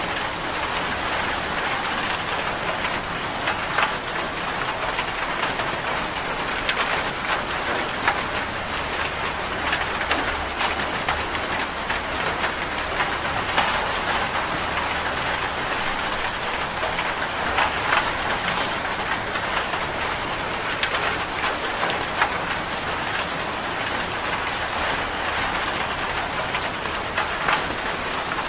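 Steady rain falling, with frequent sharp ticks of single drops.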